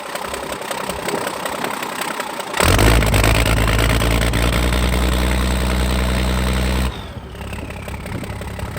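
Case W20 wheel loader's 5.9 Cummins diesel running. About two and a half seconds in it is brought up to a higher, louder steady speed for about four seconds, then drops back to idle with a falling whine.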